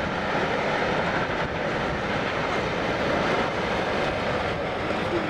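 Steam-hauled passenger train of about twelve coaches passing, with a steady, loud rolling noise on the rails.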